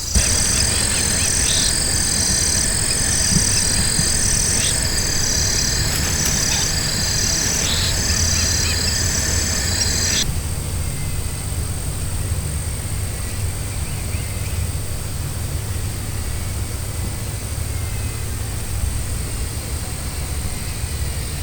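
A high, pulsing chorus of night-calling animals, cutting off abruptly about halfway through, over a steady low rumble.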